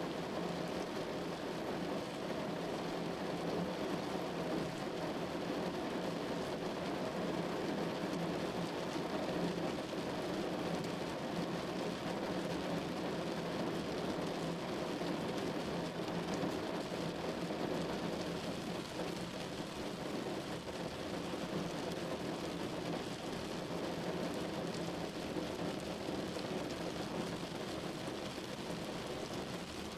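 Rain falling steadily on a window, an even wash of drops that neither builds nor breaks.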